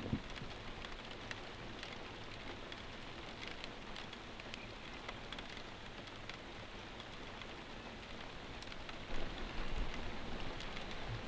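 Steady rain falling, with scattered individual drops ticking, and a few low bumps near the end.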